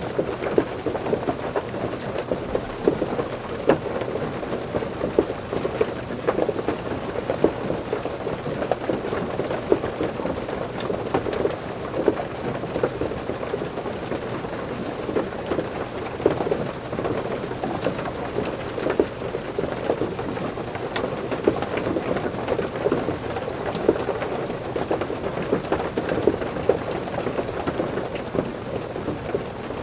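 Heavy rain falling on a roof: a steady, dense hiss packed with individual drop impacts, its weight sitting low and deep.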